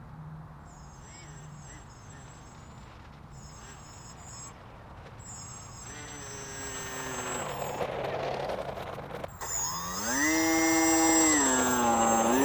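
Radio-controlled airplane's electric motor and propeller whining, faint at first, then rising sharply in pitch as it throttles up about two-thirds of the way in, holding high, dipping briefly and climbing again near the end.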